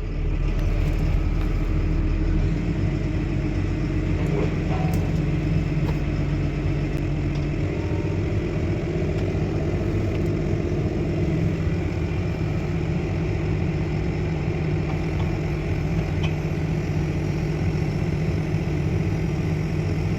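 Tractor diesel engine running steadily with a low, even rumble.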